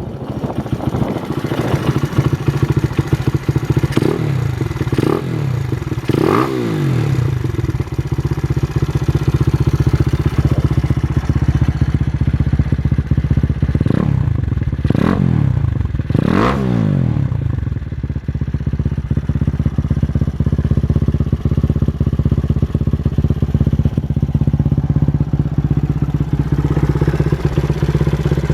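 Honda XR100 supermoto's single-cylinder four-stroke engine idling through a Yoshimura aftermarket exhaust, with three quick throttle blips a few seconds in and three more about halfway through, each rev rising and dropping straight back to idle.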